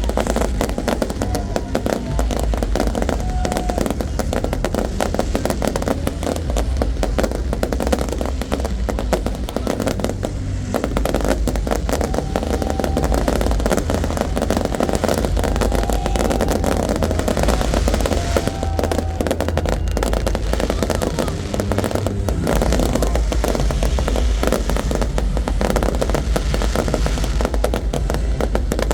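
Fireworks display: a continuous, dense barrage of bangs and crackling bursts, with a few short high tones heard over it.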